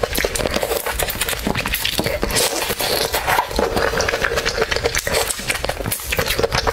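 Eating crab and shrimp: chewing and crunching, heard as a dense run of small clicks and crackles over a faint steady hum.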